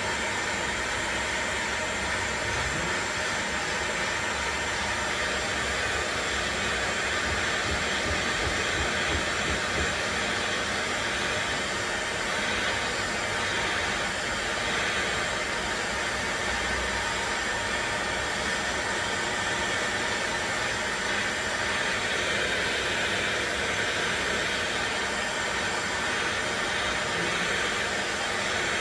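Electric heat gun running steadily, an even rushing hiss of its fan and hot air, being used to heat a Mark 1 Mini suspension trumpet to free the seized rubber cone inside it.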